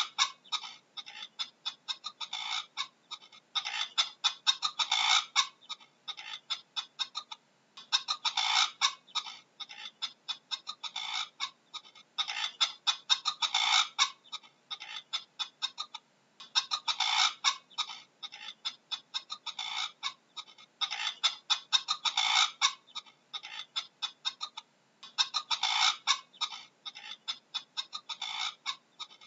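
Bird calls in repeated bursts of rapid, clicking pulses. Each burst lasts a second or two and they come about every four seconds.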